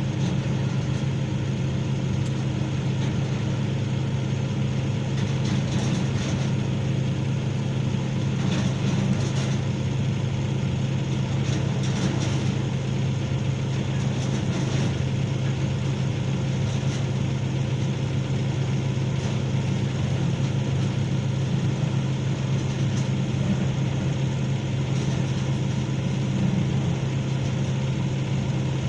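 Excavator diesel engine running steadily at a constant hum, with a few faint clicks mixed in.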